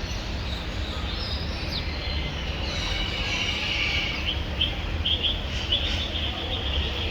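Several birds chirping and calling in quick short notes, busier from about three seconds in, over a low steady rumble.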